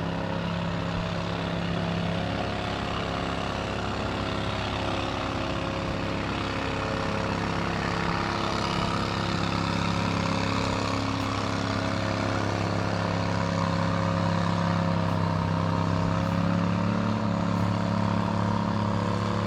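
Large vehicle engine running steadily at constant speed, a deep hum with fainter higher tones above it.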